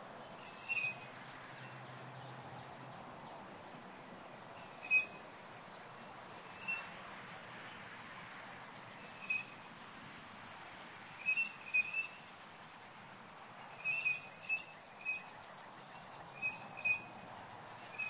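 Unidentified bird giving short, high-pitched, shrill whistle-like call notes, singly or two or three in quick succession, repeated every second or few seconds. A steady high drone of cicadas runs underneath.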